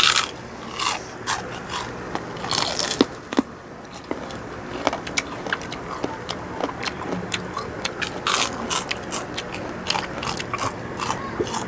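Crunching and chewing of crispy pork chicharon (fried pork rind): sharp crackling bites at irregular intervals, the loudest at the very start and about three seconds in.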